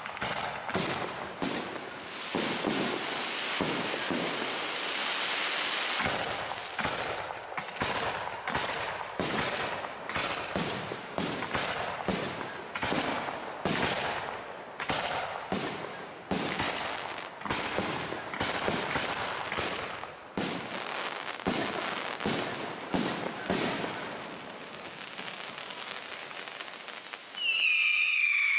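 Aerial fireworks display of professional large shells: a rapid series of bangs, about one or two a second, with crackling between them. Near the end the bangs stop and a high whistle starts, falling in pitch.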